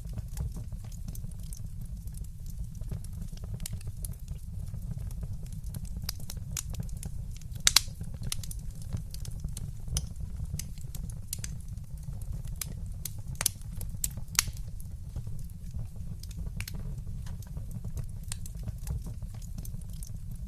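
Wood fire crackling in a fireplace: scattered sharp pops and snaps, the loudest a quick double pop about a third of the way in, over a steady low rumble.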